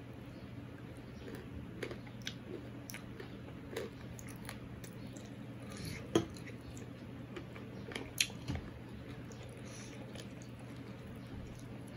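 A man chewing a mouthful of chicken curry and rice, with wet mouth sounds and scattered sharp clicks; the two loudest clicks come about six and eight seconds in.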